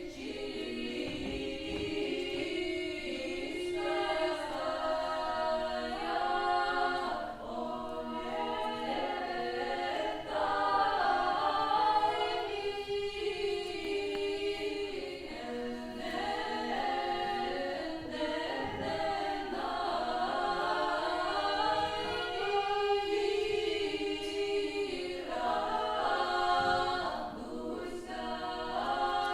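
Unaccompanied choir singing Old Russian vocal music in several parts, in long held notes that move from one pitch to the next every second or two.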